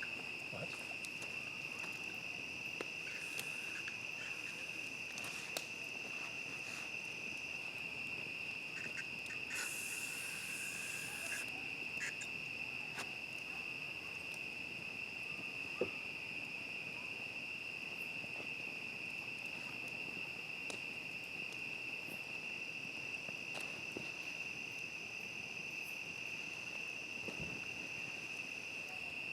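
Steady night chorus of crickets, one continuous high trill, with scattered faint clicks and crackles and a brief rustle about ten seconds in.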